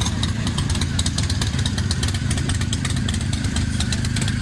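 Motorcycle engines running steadily, with many short clicks over the top.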